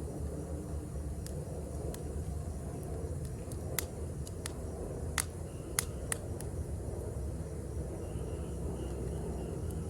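Wood campfire crackling, with a few sharp pops over a low steady rumble. Faint insects begin chirping in a repeated pulse about eight seconds in.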